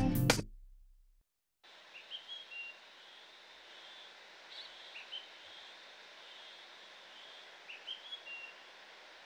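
Music fading out, then after a brief silence a faint steady outdoor background with birds chirping: short high chirps in small clusters, a few times over.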